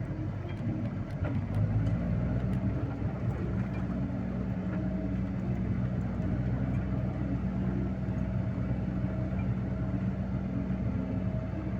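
Tow truck's engine running steadily. Its hum shifts in pitch in the first few seconds, then holds even.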